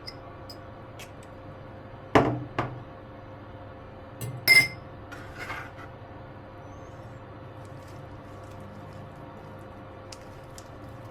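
Kitchenware clinking and knocking: a few separate knocks of dishes and utensils against each other, the loudest about halfway through with a short ring. A steady faint hum runs underneath.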